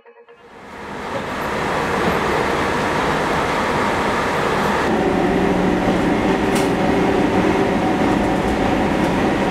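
Train running on the track, fading in over the first second or two, then a steady noise with a low hum underneath.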